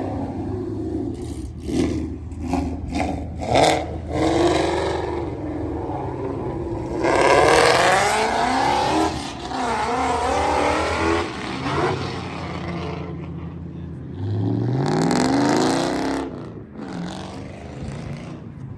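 Car engines at a car meet, revving and driving by, with one engine's revs rising sharply about three-quarters of the way through.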